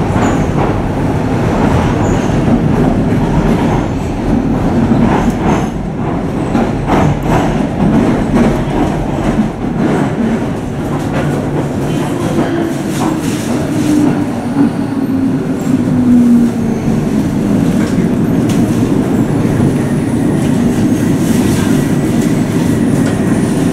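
Docklands Light Railway train heard from inside the carriage: running noise with wheels clicking over rail joints, then a whine that falls in pitch as the train brakes into the platform, giving way to a steadier hum.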